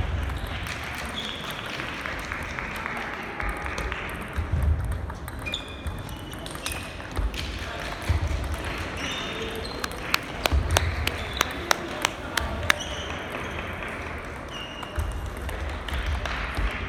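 Table tennis balls clicking off paddles and tables in a busy hall, with a quick run of sharp hits about three a second in the second half, over background chatter and short squeaks.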